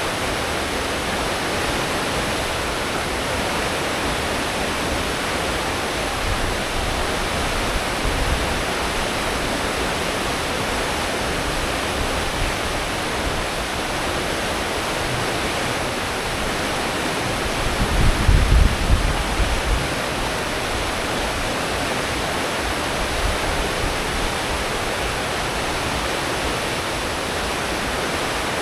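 Churning wake water behind a cruise ship running at full speed, a steady rushing hiss. A brief deeper rumble swells about two-thirds of the way through.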